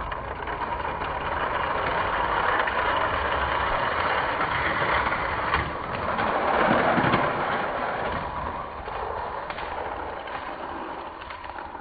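Die-cast Hot Wheels cars rolling fast along a plastic toy track, a steady rumbling hiss with a few light clicks, fading away near the end as the race finishes.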